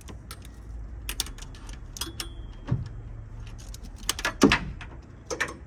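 Metal tools and engine parts clinking and knocking, a series of short sharp hits with a louder cluster about four seconds in, as parts are worked off a 4.3 V6 engine during cylinder head removal.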